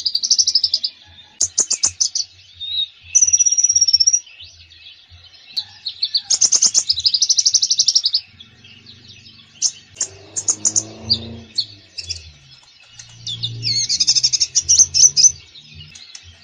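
A konin songbird singing a busy, varied song: bursts of rapid high chirping trills and whistled notes, each a second or two long, with short pauses between.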